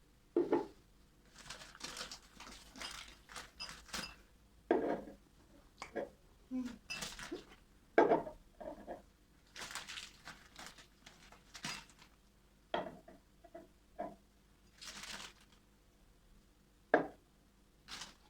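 Dishes and utensils being handled in a kitchen: a string of separate clinks, knocks and short clatters, the sharpest about 8 seconds in and near the end.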